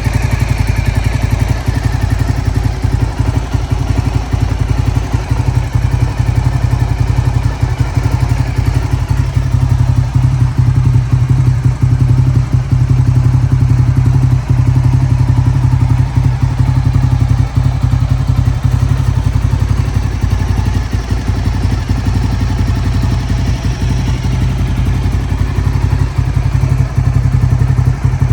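Honda GB250 Clubman's air-cooled single-cylinder four-stroke engine idling steadily, its firing pulses even and unchanging.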